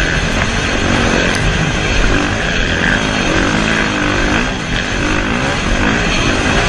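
Motocross dirt bike engines revving loudly, their pitch rising and falling again and again.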